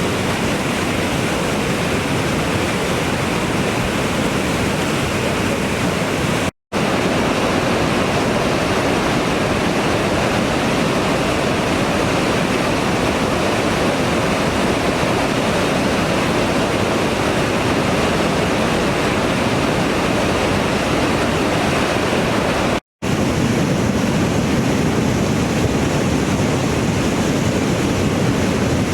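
Steady loud rushing of a river in flood, fast water churning without let-up. The sound cuts out for an instant twice, about a quarter of the way in and again about three quarters through.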